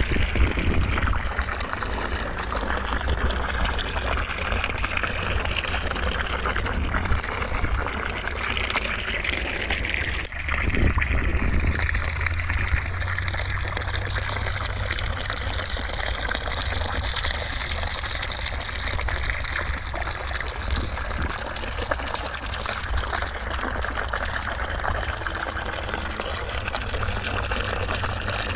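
Steady rushing white noise, a continuous hiss with a deep rumble beneath it; it dips briefly about ten seconds in, then carries on unchanged.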